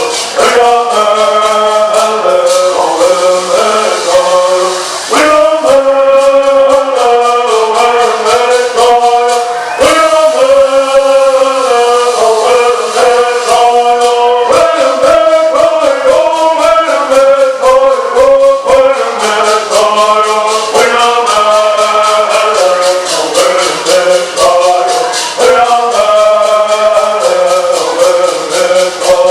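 A group of men singing a Southern California Native American bird song in unison, in phrases of a few seconds, over a steady fast shaking of gourd rattles.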